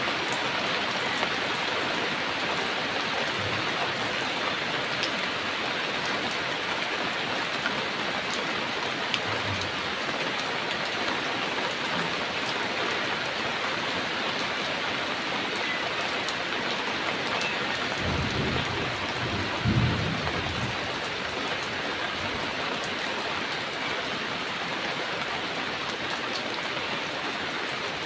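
Heavy rain falling steadily, with a brief low rumble of distant thunder about two-thirds of the way in.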